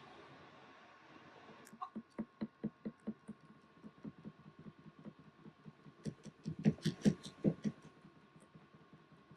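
Washing machine mid-cycle with bedding inside: a run of quick clicks, about five a second, starting near two seconds in, then a few louder knocks around seven seconds, over a faint steady hum.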